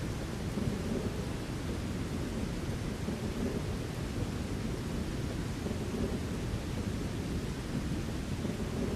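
Thunderstorm: a steady low rumble of thunder under falling rain, with no sharp claps.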